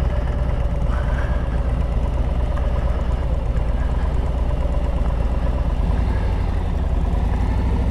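Harley-Davidson Road Glide's V-twin engine running at low speed while the bike is ridden off-road, a steady low rumble. Its separate firing beats become distinct about six seconds in.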